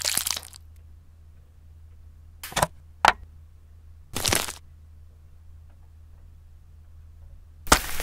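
Short added kitchen foley sounds separated by near silence: a serrated knife slicing through at the start, two sharp clicks about two and a half and three seconds in, a short scraping burst about four seconds in as a wooden spatula works in a bamboo steamer, and another short burst near the end. A faint low hum lies underneath.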